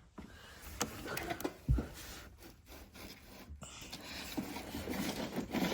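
A box being pulled down from storage and handled: scraping and rubbing, with a few clicks and a thump about two seconds in.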